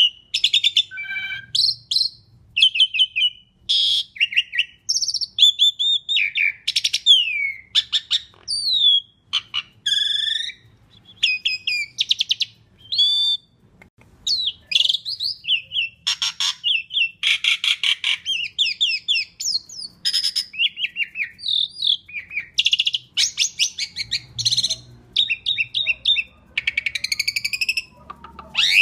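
Jalak suren (pied starling) singing a long, varied, almost nonstop song of whistles, chattering, rising and falling notes and harsh rattling phrases, with only brief pauses.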